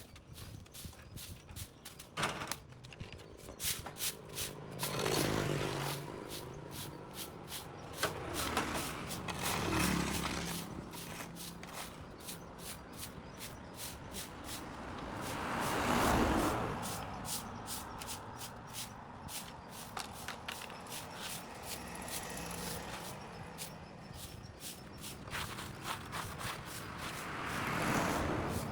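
Vehicles passing on an adjacent road, four of them, each swelling in and fading away. Rapid light clicks run underneath throughout.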